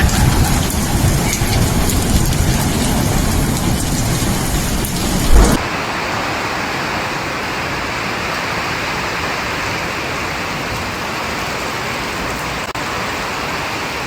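Heavy rain pouring during a thunderstorm, with a loud low rumble under it for the first five seconds or so and a brief low thump just before the sound changes abruptly to a steady, even downpour.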